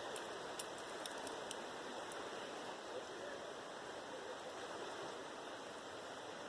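Steady rush of river water flowing, with a few faint clicks in the first two seconds.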